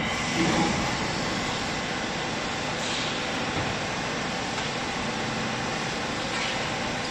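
Hydraulic baling press running with a steady mechanical noise, with a brief swell about half a second in.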